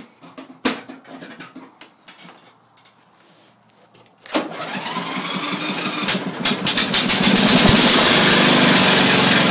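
Sabre lawn tractor's Briggs & Stratton cast-iron-sleeve engine on a cold start. A click comes about a second in, then a pause. The starter cranks from about four seconds in, and the engine catches with a few firing pulses around six to seven seconds in, then settles into a steady run.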